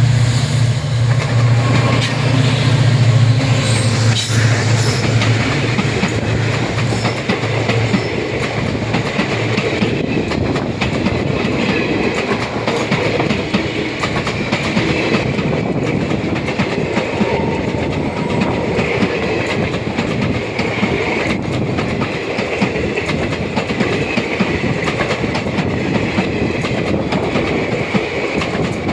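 Diesel passenger train passing close by: a deep engine drone for the first few seconds, then the coaches' wheels clattering rhythmically over the rail joints as they roll past.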